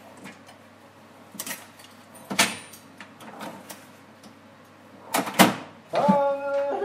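Scattered knocks and clatters, with a louder double clatter about five seconds in, then a held pitched tone starting about a second before the end.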